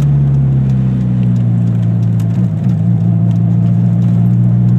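Eagle Talon TSI's turbocharged four-cylinder engine running at steady revs, a loud, even drone with a brief wobble about halfway through.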